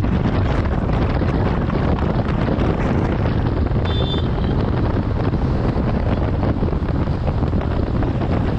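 Heavy, steady wind noise on a riding motorcycle's camera microphone at speed.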